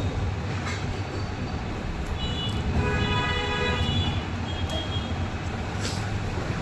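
Steady road-traffic rumble, with a vehicle horn sounding two or three times around the middle, the longest blast lasting about a second.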